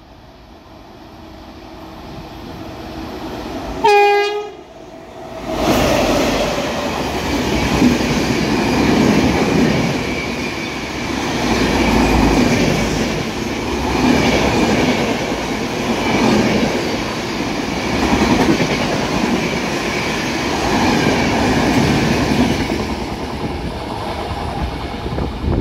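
Indian express train approaching at speed and giving one short blast of its horn, then the coaches rushing past close by with a rhythmic wheel clatter that swells about every two seconds. The sound cuts off suddenly at the end.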